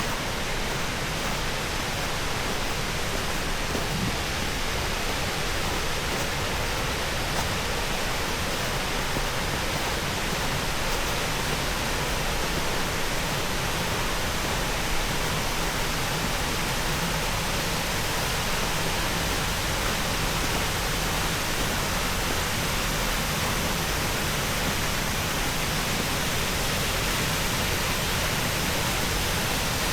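Waterfall on a small creek, falling water rushing in a steady, unbroken hiss.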